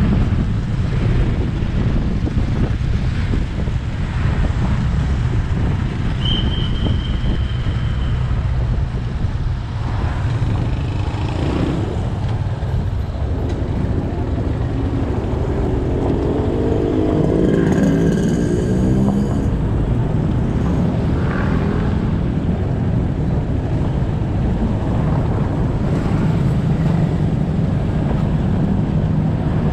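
Motorcycle engine running under way with wind and road noise on the rider's camera, in traffic. A brief high tone sounds about six seconds in, and a passing vehicle swells up past the middle.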